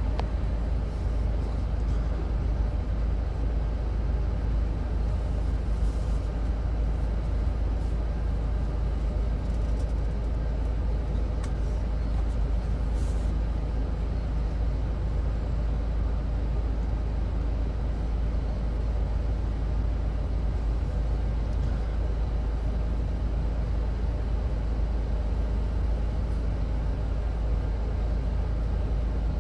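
Intermodal container freight train rolling past, a steady low rumble with no break.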